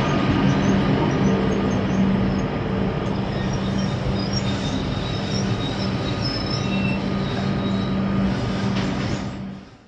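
Comeng electric suburban train running past along the platform: a steady rumble of wheels on the rails with a low steady hum and faint high-pitched wheel squeals. It cuts off abruptly near the end.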